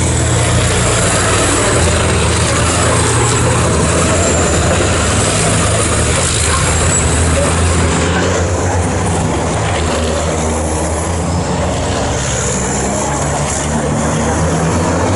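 Turbodiesel race truck engines running hard on track, a steady low engine note with a high turbo whine that rises and falls.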